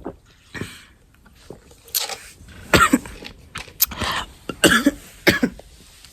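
A person coughing in a fit: about six short, harsh coughs a second or less apart, with throat clearing between them.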